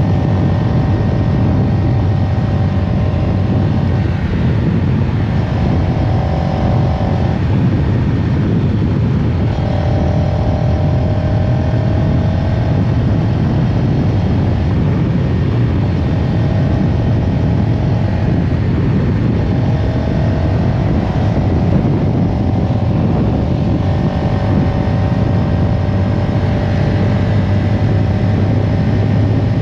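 CFMOTO CLX 700 Heritage's parallel-twin engine running steadily at fairly even revs: a constant low drone, with a higher whine that drops out briefly every few seconds.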